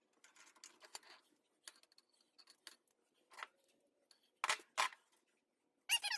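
Small clicks and scraping from handling scrap plumbing, then two sharp snaps about a third of a second apart. Near the end an animal starts a run of high, wavering yelps.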